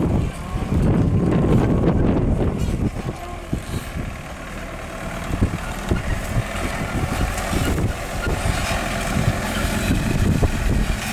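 Diesel engine of a loaded sugarcane truck running under load at low speed as it pulls out of a cane field.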